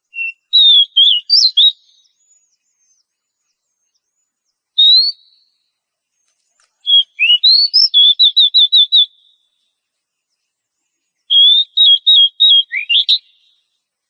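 Oriental magpie-robin singing in four separate phrases of clear whistled notes, with silent gaps between them. A lone rising note comes about five seconds in, and the longer phrases about seven and eleven seconds in end in quick runs of repeated notes.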